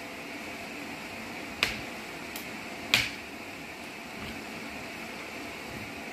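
A metal spoon and fork clicking against a plate, two sharp clinks about a second and a half apart with a fainter tick between them, over a steady room hum.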